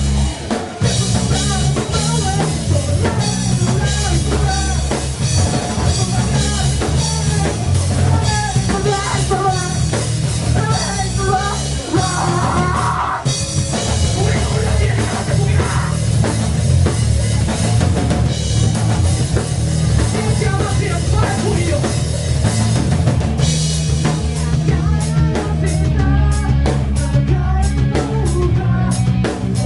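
Rock band playing: drum kit and guitar, with singing at times.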